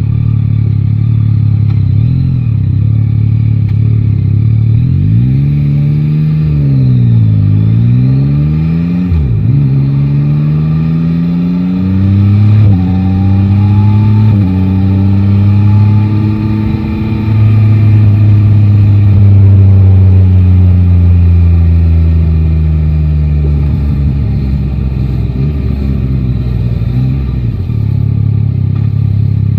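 Yamaha Tracer 9 GT's three-cylinder engine ticking over low, then revving and pulling away, climbing through several quick upshifts, each a sudden drop in pitch. The engine note then eases off slowly as the bike slows and settles back to a steady low note near the end.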